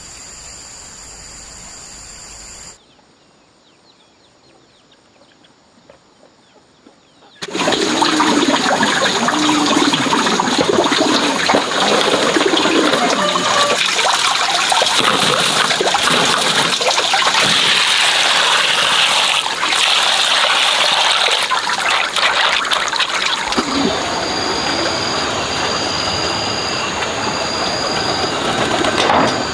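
Water running and splashing, loud and steady, starting suddenly about seven seconds in after a quieter stretch.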